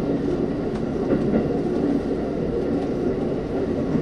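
Keikyu electric multiple-unit train running on elevated track, heard from inside the driver's cab: a steady rumble of wheels on rail with faint clicks.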